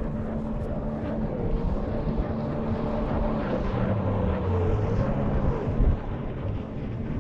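A motor droning steadily, its pitch wavering slightly, with a brief low thump about six seconds in.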